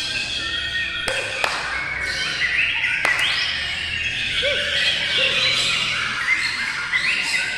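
Several songbirds singing at once: overlapping chirping and warbling phrases with quick rising and falling notes. A few sharp clicks fall in the first three seconds.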